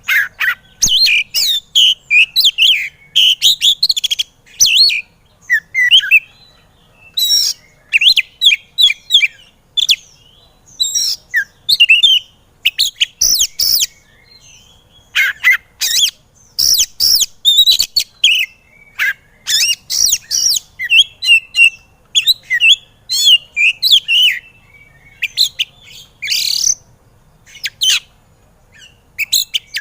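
Oriental magpie-robin (kacer) in full, fired-up song: rapid, varied phrases of shrill whistles, chirps and harsh notes, delivered in quick bursts with short pauses between them.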